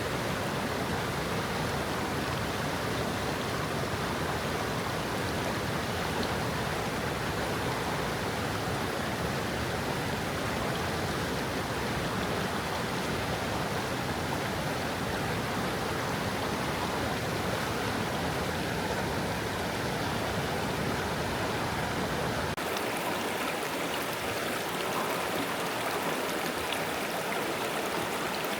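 Steady water of a small stream running over stones. About three quarters of the way through, the sound changes abruptly: the deep rumble falls away and the water turns brighter and splashier.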